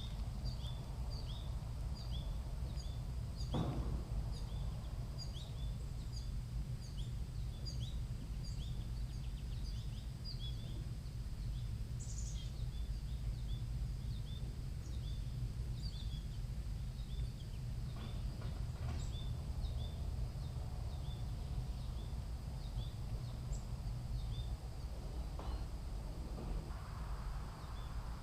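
Steady low outdoor rumble with a long run of short, high chirps repeating about twice a second, and a single sharp knock a few seconds in.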